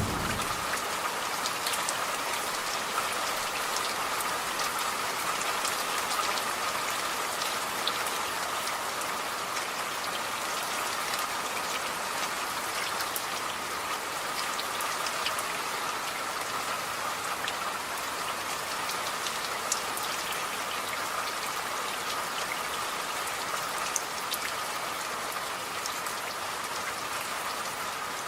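Steady rain falling, an even hiss with scattered close drops ticking on a surface.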